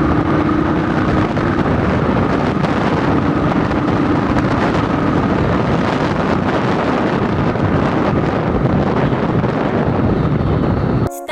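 Riding a Royal Enfield Thunderbird motorcycle through traffic: steady wind rush over the action-camera microphone with the single-cylinder engine and road noise underneath. It cuts off suddenly near the end.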